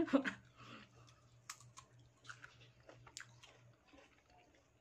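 A person chewing a bite of mango with the mouth closed, with a few faint, short crisp crunches.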